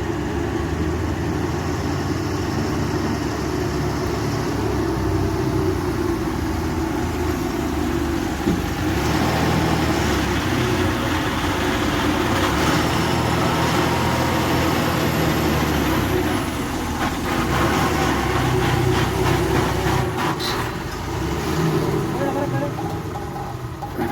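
A truck's diesel engine running, its note shifting up and down several times, with a brief knock about eight and a half seconds in.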